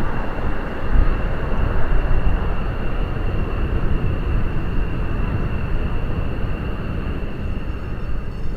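KDC-10 Extender tanker's General Electric CF6 turbofan engines running, a loud, steady deep rumble with a thin high whine held over it.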